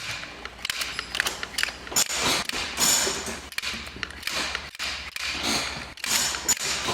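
Adhesive cartridge gun being worked to dispense industrial adhesive, with irregular clicks and creaks from the trigger and plunger.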